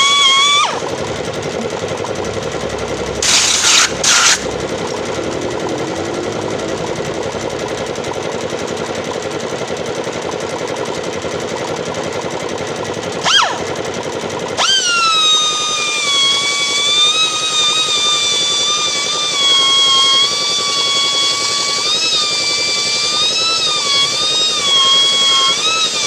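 Pneumatic air grinder running. For most of the first half it makes a harsh, dense, rattling grinding noise, with two short hissing bursts and a sharp click. About fifteen seconds in, this changes back to a high, steady whine that wavers slightly in pitch.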